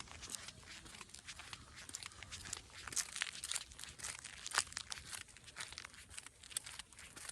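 Irregular dry crunching and crackling, with a louder crackle about four and a half seconds in.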